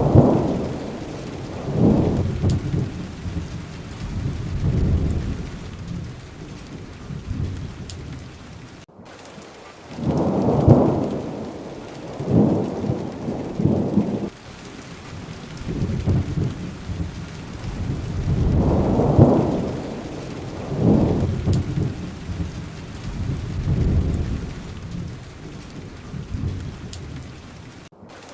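Steady rain with repeated low rolls of thunder swelling and fading every couple of seconds. The sound cuts out for an instant about nine seconds in and again near the end.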